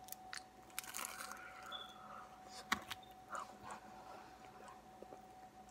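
Biting into a burrito with a crisp, slightly burnt tortilla and chewing it, with crunchy bites during the first second and again near three seconds in, then softer chewing.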